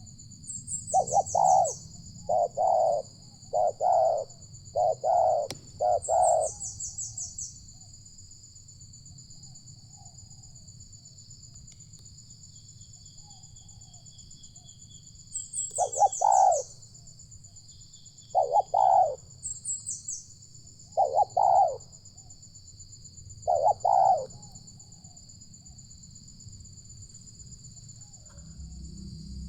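Spotted doves cooing: a quick run of about six deep coo notes, then, after a pause, four more coos spaced a couple of seconds apart. A steady high-pitched whine with a few short chirps runs underneath.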